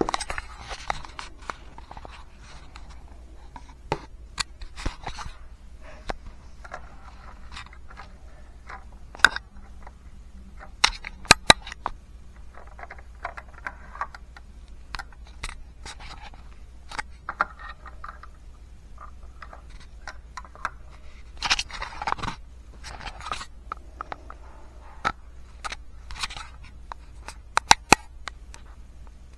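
Small plastic parts of a LEGO model being handled: irregular clicks and taps with short scrapes in between, a few sharper clicks standing out.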